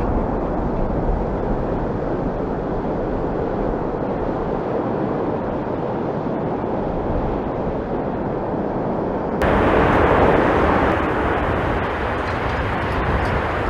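Steady rushing jet noise from a Boeing 747-8F on approach, mixed with strong wind rumbling on the microphone. About nine seconds in the sound jumps abruptly to a louder, brighter stretch.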